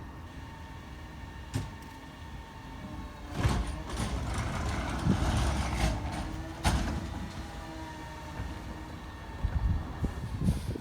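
McNeilus ZR side-loader garbage truck at work: the engine runs steadily while a hydraulic whine and rattle swell in the middle. Two loud bangs, one about three and a half seconds in and one near seven seconds, stand out above a smaller knock early on.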